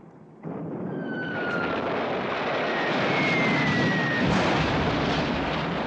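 Jet aircraft flying low overhead: a loud rushing roar that starts abruptly about half a second in and builds, with a thin whine sliding down in pitch as it passes.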